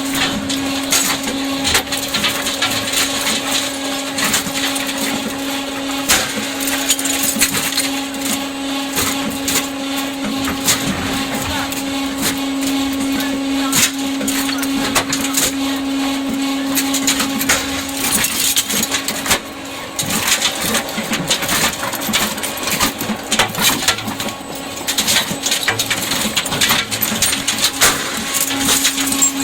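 Engine cracker machine breaking scrap engines into pieces: a steady motor hum under a continual, irregular clatter and crashing of metal.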